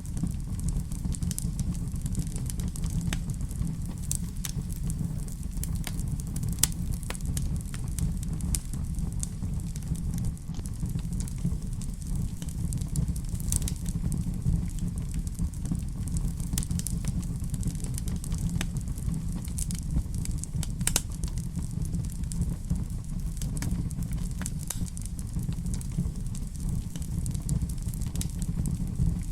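Fireplace fire burning with a steady low rumble and irregular sharp crackles and pops of burning wood.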